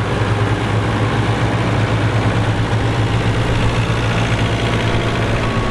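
Engine of a vintage farm machine running steadily with a deep, even hum.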